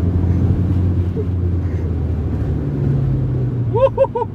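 Car engine running steadily, heard from inside the cabin while driving, its note dropping to a lower pitch about two and a half seconds in as the car eases off. Near the end come three quick, high rising-and-falling chirps.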